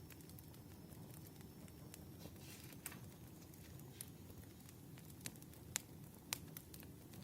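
Wood fire crackling faintly: a steady low rumble with sharp pops, most of them in the second half.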